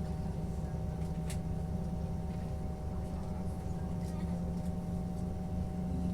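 Steady drone of a moving vehicle heard from inside the cabin: a low rumble with a constant hum, and a few faint clicks.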